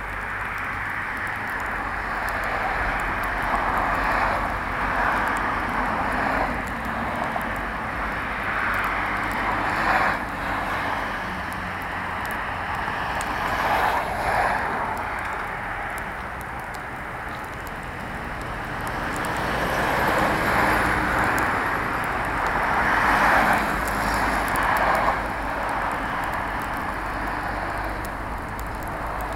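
Large pile of autumn leaves burning: a continuous rushing roar of flames that swells and eases every few seconds, with a few sharp crackles.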